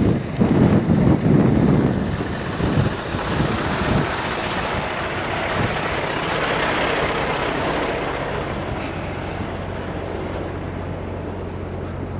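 Heavy diesel truck engine running steadily, with wind buffeting the microphone in the first couple of seconds.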